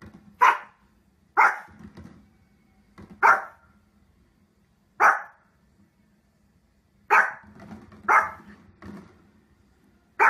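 Pomeranian barking: about seven sharp single barks, one to two seconds apart, with a few quieter woofs between them.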